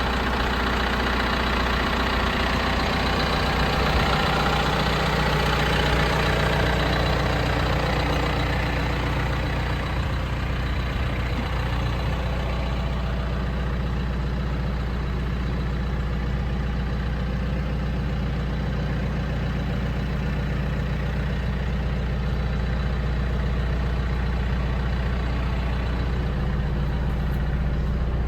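John Deere 310SL backhoe loader's diesel engine running steadily at idle, a little louder for a few seconds near the start.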